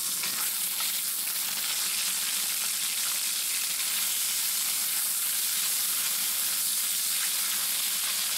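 Diced chicken thigh sizzling steadily in roasted garlic avocado oil in a Lodge cast iron wok on full heat, with a wooden spatula stirring and scraping the pieces around.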